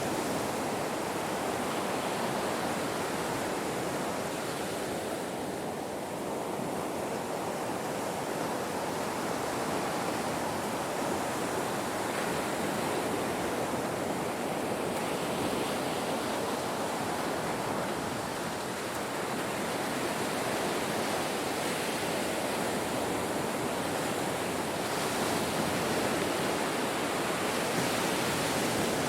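Ocean surf washing onto a shore, a continuous rushing hiss that eases and swells slowly.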